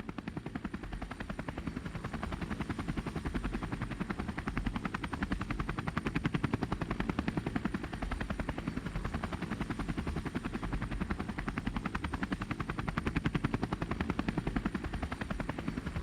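Motorcycle engine running steadily, its rapid, even firing pulse heard throughout.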